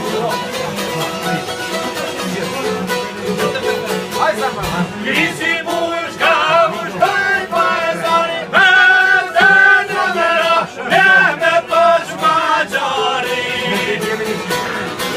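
Albanian folk song: plucked string instruments playing throughout. A man's voice sings a wavering, ornamented line from about five seconds in until near the end.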